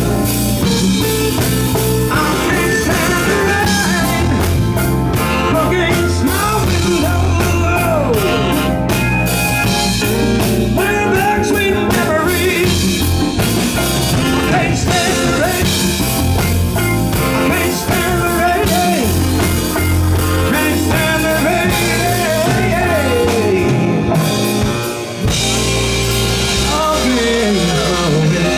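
Live rock band playing a blues-rock song, a male lead vocal singing over drum kit, bass and guitar, with a brief stop about 25 seconds in.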